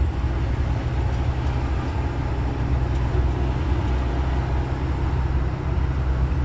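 Steady low engine and road rumble of a tow truck being driven on the highway, heard from inside its cab.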